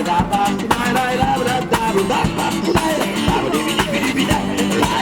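Acoustic guitar strummed in a steady rhythm, about two strokes a second, with a melody line over it: an instrumental passage between the verse and the chorus of a song.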